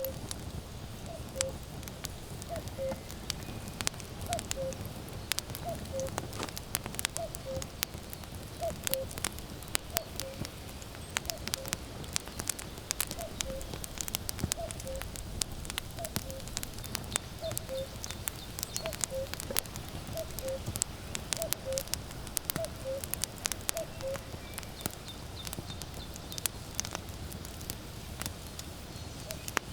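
Burning firewood crackling and popping throughout, with a common cuckoo calling its falling two-note "cuckoo" over and over, about one call every second and a half, stopping a few seconds before the end.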